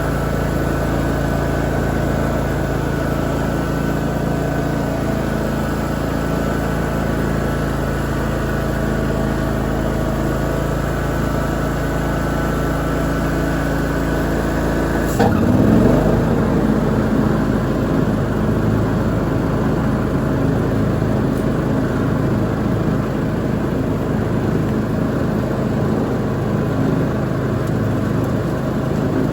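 Lawn mower engine running steadily while mowing. About halfway there is a short knock, the engine pitch dips and recovers, and it runs on with a noisier, less even sound.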